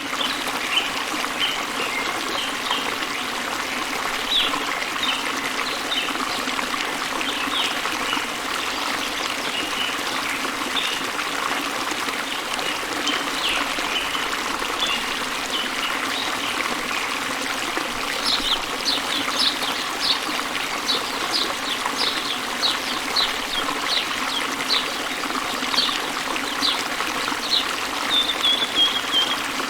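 Small waterfall splashing into a flowing river, a steady rush of water, with birds chirping over it. About two-thirds of the way in, one bird starts repeating quick, sharp, high notes, ending in a short trill.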